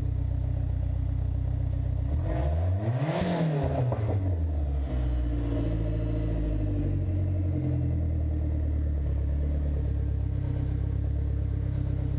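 Dodge SRT-4's turbocharged 2.4-litre four-cylinder running through an open 3-inch MPX downpipe and flex pipe with the catalytic converter removed and no further exhaust fitted. It idles, is revved once about two seconds in, rising then falling, and settles back to a steady idle.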